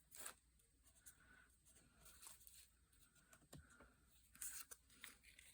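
Faint rustling of paper with a few light taps and clicks, as small paper craft pieces are handled and moved about.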